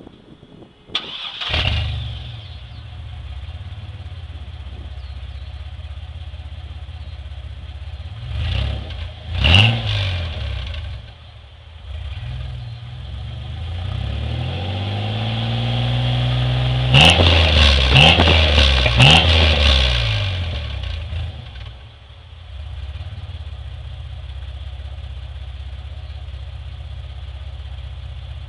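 Blazer's exhaust through a Flowmaster 40 series muffler with 2.5-inch pipe and a turndown tip, fitted with stock catalytic converter and headers. The engine starts about a second in and settles to a steady idle, gets two quick revs, then a slow climb held at higher revs with three sharp blips, and drops back to idle near the end.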